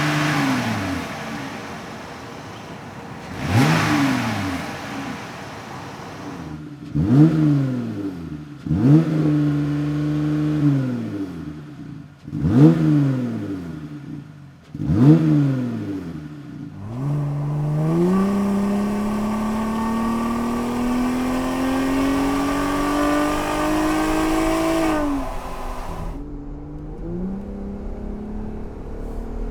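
Jeep Gladiator's 3.6-liter Pentastar V6 through a Magnaflow Overland Series cat-back exhaust, blipped sharply about six times from idle, then held in one long, steady climb in revs before dropping back to a low steady note near the end. The tone is deep with some grumble down low, turning into a race-car style wail as the revs rise.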